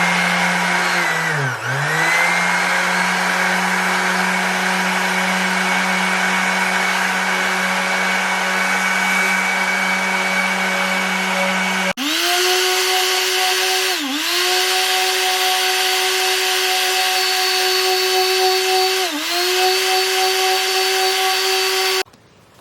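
Handheld electric power tool running at a steady speed and sagging briefly under load about a second and a half in. At about twelve seconds it gives way abruptly to a higher-pitched motor run that sags twice under load, then stops abruptly near the end.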